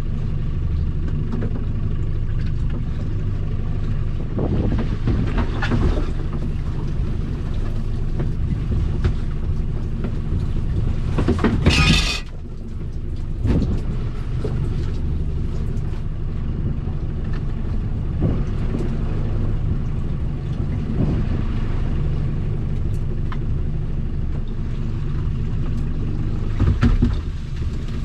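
Small boat's outboard engine running steadily underway, a low hum with wind and water noise over it. About twelve seconds in there is a brief loud rush of noise.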